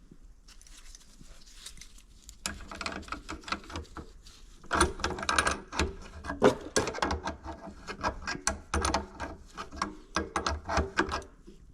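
Hand tools working on the engine's crankcases as they are split apart: rapid, irregular metallic clicking and tapping with some dull knocks, starting about two and a half seconds in and growing busier about halfway through.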